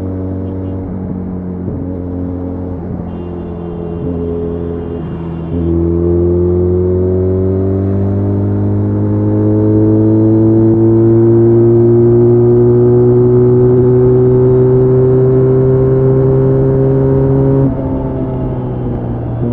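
Benelli Leoncino 500's parallel-twin engine under way, holding a steady note at first. About five seconds in the throttle opens: the engine gets louder and its pitch climbs slowly and evenly under load for about twelve seconds, a long pull at high speed. Near the end the note drops suddenly.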